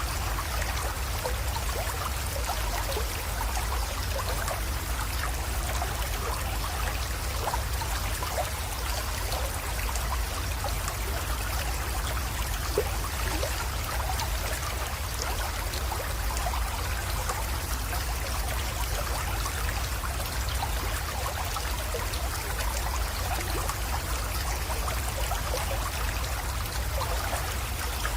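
Water of a small creek flowing and trickling steadily, with a low steady rumble underneath.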